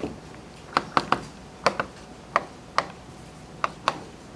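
Chalk tapping and clicking against a blackboard as text is written: about eight sharp, irregular taps.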